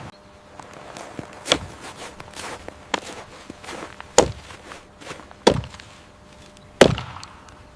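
Four sharp knocks, a little over a second apart, with lighter taps in between.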